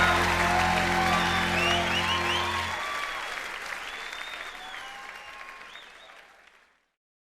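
The last chord of a live rock band rings out and stops a few seconds in, under a concert crowd applauding and cheering; the applause then fades away to silence.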